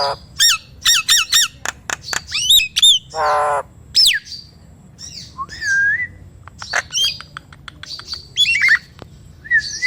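Nias hill myna calling loudly in a rapid mix of sharp clicks and whistles that sweep down in pitch. There is a harsh nasal squawk about three seconds in, and a long falling whistle just after it.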